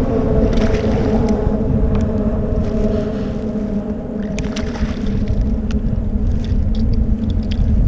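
A boat motor running steadily, a constant pitched drone over a heavy low rumble, with a few light clicks and knocks scattered through.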